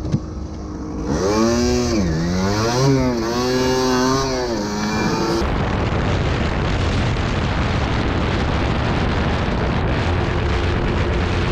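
Motorcycle engine revving up and down for a few seconds. It then cuts to the steady rush of wind and engine while riding at speed, with an even engine note coming back near the end.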